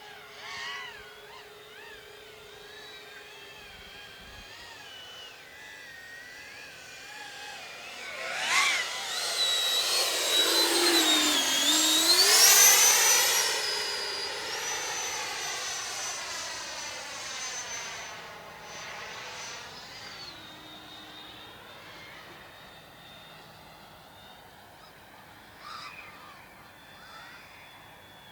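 Electric ducted-fan whine of a Freewing J-10 RC jet's 90mm EDF, faint and distant at first, then growing loud as the jet makes a close pass. Its pitch climbs sharply about twelve seconds in, holds high for several seconds, drops back near twenty seconds, and the whine fades off.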